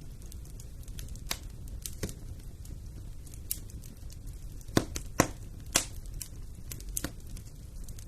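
Wood fire burning in a fireplace: sharp crackles and pops every second or so, the loudest a close pair about five seconds in, over the low steady rumble of the flames.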